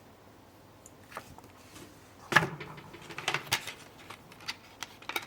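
Plastic Blu-ray case being handled and opened: one sharp click about two seconds in, then a run of small clicks and light rustling.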